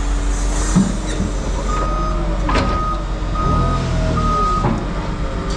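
Vehicle backup alarm beeping three or four times, about half a second on and off, over a running engine.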